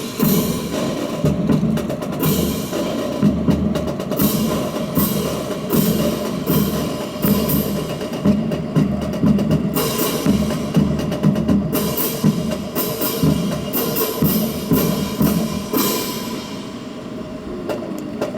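A drill team's rifles (36 of them) slapped, spun and clacked in unison, with sharp, rhythmic wooden clicks of the rifles striking hands and each other, over a drum beat.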